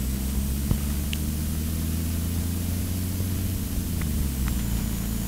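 Steady drone of a vehicle engine at cruising speed, with a hiss of road and wind noise over it; the engine note dips slightly about four seconds in.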